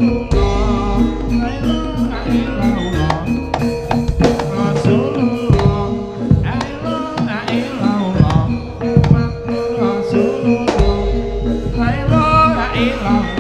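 Live jaranan gamelan music: hand drums beating a driving rhythm under steady held pitched tones, with a wavering melody line above.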